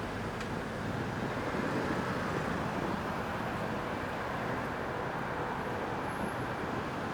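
Steady traffic noise, an even background rumble with no single standout event.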